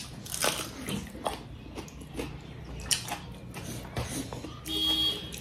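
Quiet eating sounds: scattered small clicks and mouth smacks from chewing, with a brief faint high-pitched squeak or whine near the end.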